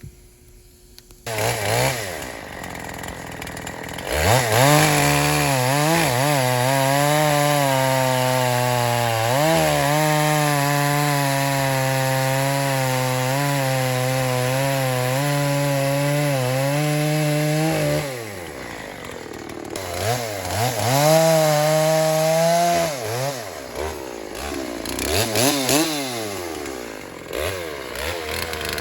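Two-stroke Dolmar chainsaw revving up after a second or so, then held at high revs for a long, steady stretch. It drops back to a lower speed about two-thirds of the way through, then is revved up and down a few times.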